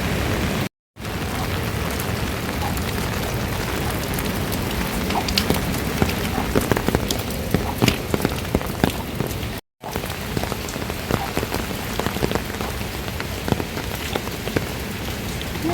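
Steady rain falling on surfaces, with many separate drops ticking close by. The sound cuts out completely twice, for a moment each time.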